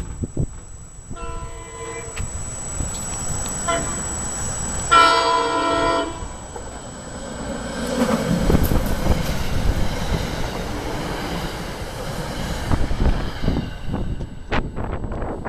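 SEPTA regional rail electric commuter train sounding its horn: a short, fainter chord about a second in, then a louder blast about five seconds in lasting about a second, followed by the rumble and rail noise of the train passing through the station.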